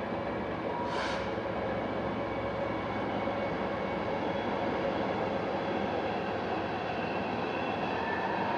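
Train crossing a railway bridge, its wheels rolling on the rails in a steady rumble with tonal ringing, slowly growing louder. A short hiss about a second in.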